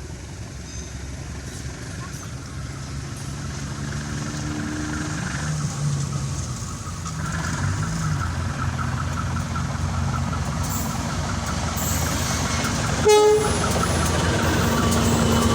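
Diesel locomotive drawing near, its engine note growing steadily louder, with a brief horn toot about thirteen seconds in.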